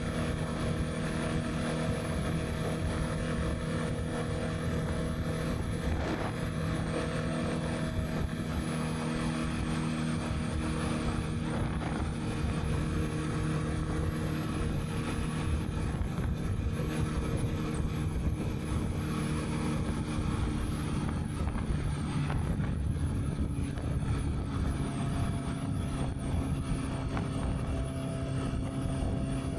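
Honda CB650R's inline-four engine running steadily at an even speed while riding, with wind buffeting the microphone.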